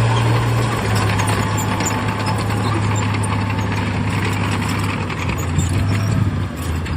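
Heavy diesel engine of earthmoving machinery running, a steady low drone that shifts down in pitch about a second in and again near the end, with mechanical noise over it.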